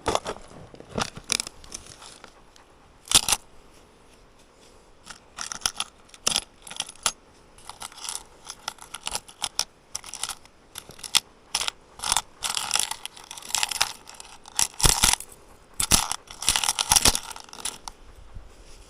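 Irregular clinks, rattles and scrapes of small hard objects being handled, coming thicker and louder in the second half.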